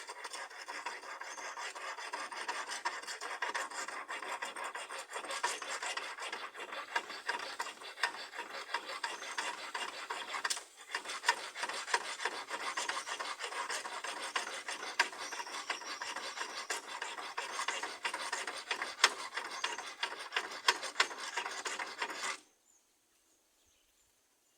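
A bare hacksaw blade held in the hand, without a frame, sawing back and forth through a chassis bolt in a continuous rasping scrape. There is a brief pause about ten seconds in, and the sawing stops suddenly near the end. The bolt turns with the blade, so the cut makes little headway.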